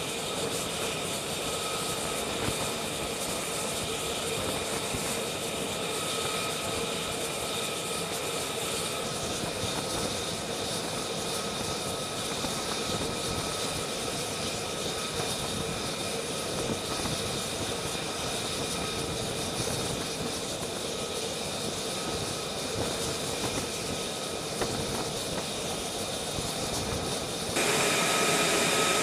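Jet aircraft engine running steadily on a carrier flight deck: a continuous rushing noise with a steady high whine, stepping suddenly louder near the end.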